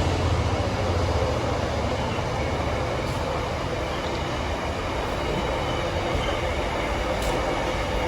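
A freight train's wagons rolling past with a steady rumble of wheels on rails. The Class 66 diesel locomotive's low engine note fades away over the first second or so.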